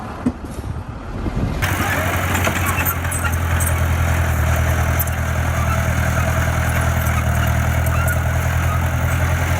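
Wind noise on the microphone. About a second and a half in, it switches abruptly to the diesel engine of a heavy construction machine running steadily, with a deep hum and a steady high whine.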